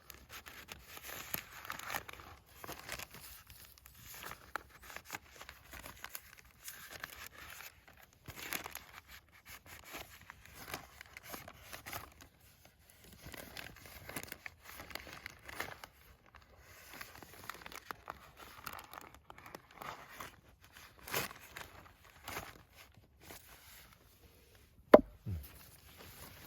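A nata blade being sharpened on a whetstone: a long run of short, irregular scraping strokes. One sharp knock stands out near the end.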